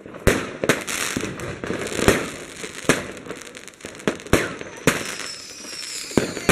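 Fireworks going off: an irregular string of sharp bangs, about one or two a second, over continuous crackling, with a faint high whistle near the end.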